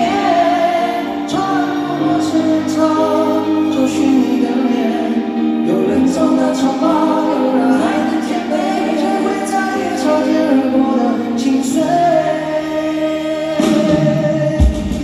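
Live concert music with singing over sustained chords; drums come in near the end.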